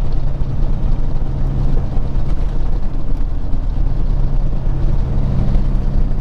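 Peterbilt 379 semi truck's diesel engine running steadily at highway speed, heard from inside the cab as a constant low drone with road rumble.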